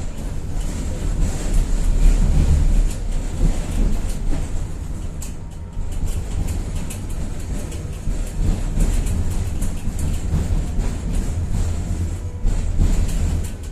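Tatra-Yug K1M tram running along the track: a heavy, steady low noise from the running gear with many short clicks and knocks from the wheels on the rails, and a faint steady high whine.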